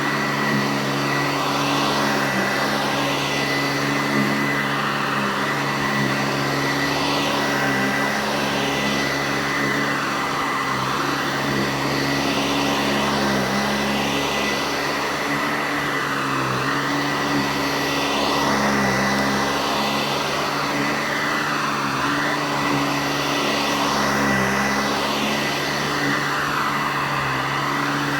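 Eureka Heavy Duty Commercial C2094 upright vacuum running steadily. The pitch of its whine dips and rises every two or three seconds, as it is pushed back and forth.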